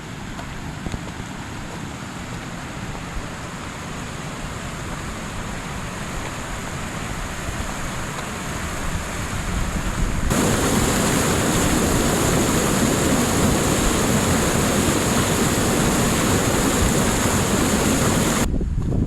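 Steady rush of flowing mountain water, growing slowly louder, then abruptly louder about ten seconds in, and cutting back down just before the end.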